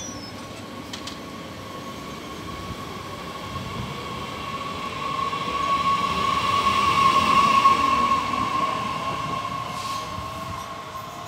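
TER regional multiple-unit train pulling away past on the track, its running noise with a steady high-pitched squeal that swells to its loudest in the middle and then fades as the train moves off. Faint rising whines come in near the end.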